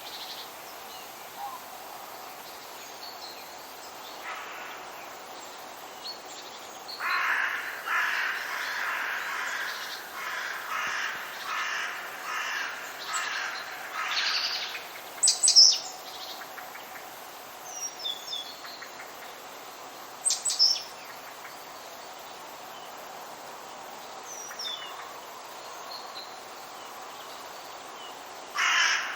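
Wild birds calling over a steady background hiss: a run of harsh, rapidly repeated calls lasting several seconds, then a few sharp high chirps.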